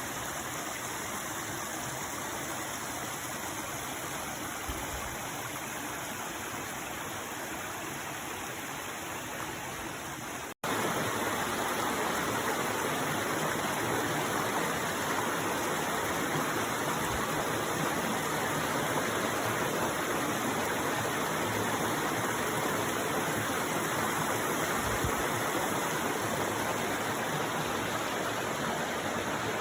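Mountain stream rushing steadily over rocks. About ten seconds in the sound cuts out for an instant and comes back louder.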